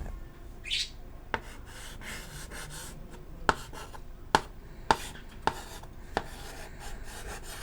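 Chalk writing on a chalkboard: soft scratchy strokes broken by about six sharp taps as the chalk strikes the board.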